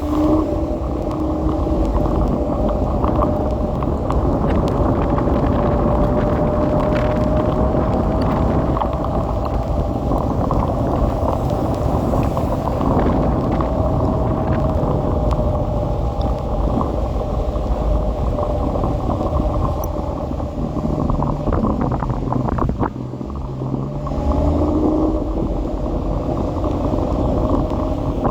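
Kugoo electric scooter being ridden: a steady motor whine that drifts slightly in pitch, over heavy wind rumble on the microphone. The whine rises as it speeds up near the start and again near the end.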